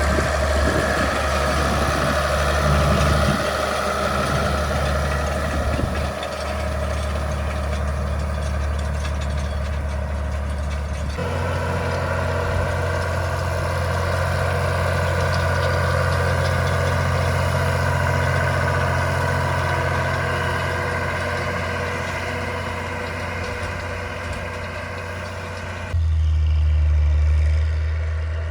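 Ford 8210 tractor's six-cylinder diesel engine running steadily while pulling harrows. Its tone shifts abruptly twice, about a third of the way through and again near the end.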